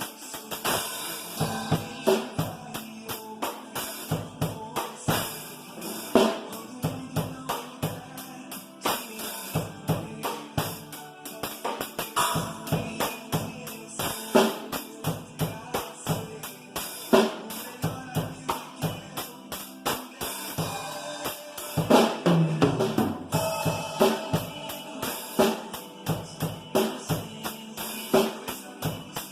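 Drum kit played along to a recorded pop-rock song: a steady beat of bass drum and snare with cymbals over the backing track.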